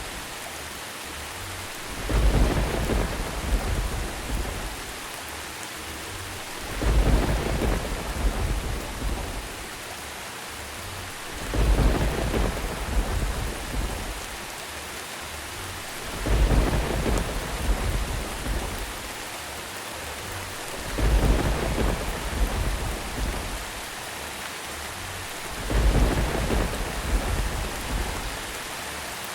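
Steady rain with a low thunder rumble that swells and fades about every five seconds, six times, at evenly spaced intervals.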